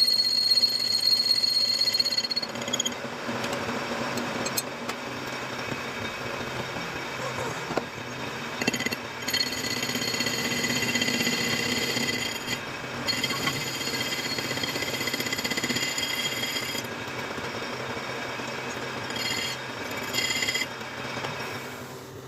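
Metal lathe cutting a steel workpiece, a rough steady machining noise. A high-pitched ringing from the tool comes and goes several times.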